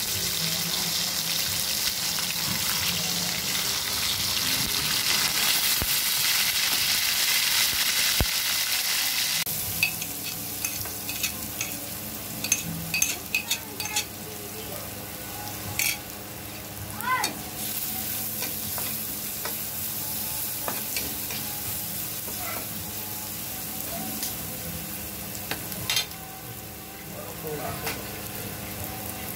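Fish steak frying in hot oil in a wok, a loud steady sizzle. About ten seconds in it gives way to a quieter sizzle of minced garlic in the oil, with spoon clicks and scrapes against the pan.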